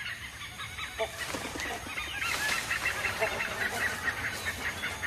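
A chorus of birds calling with many quick high chirps, with a lower honk-like call standing out twice.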